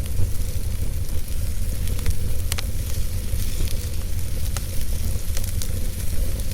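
Wood fire burning in a fireplace: a steady low rumble and hiss of the flames, with a handful of sharp crackles and pops, the loudest about two and a half seconds in.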